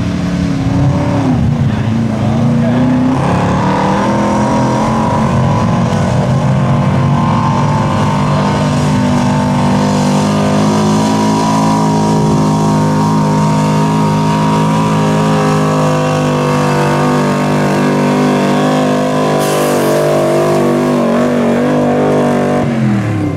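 Pulling truck's engine held at high revs under load during a pull, its pitch dipping briefly about a second in, then climbing and holding steady. Near the end the revs drop sharply as the engine comes off the throttle.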